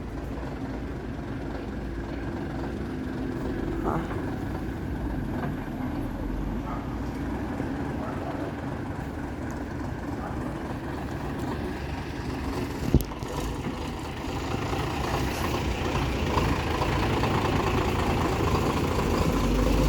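Diesel bus engines running, growing louder over the last several seconds as a bus comes closer. There is one sharp click about two-thirds of the way through.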